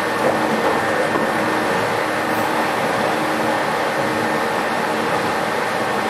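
Steady cabin noise inside a JNR-built 117 series electric train: an even hum and rush with faint constant tones and no rise or fall in pitch.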